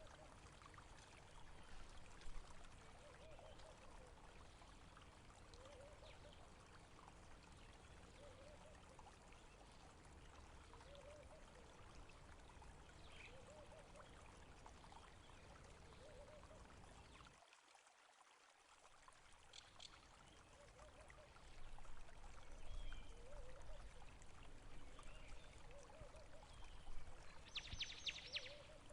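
Faint running water from a stream, with a short low sound repeating about every two seconds. It briefly drops out about two-thirds of the way through, and high bird chirps come in near the end.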